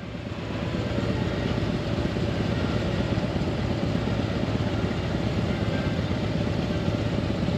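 Motorcycle engine running steadily, a dense low hum that builds up over the first second.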